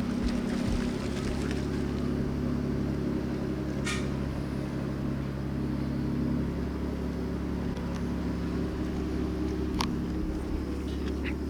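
An engine running steadily with a low, even hum, with brief sharp high sounds about four seconds in and again near the end.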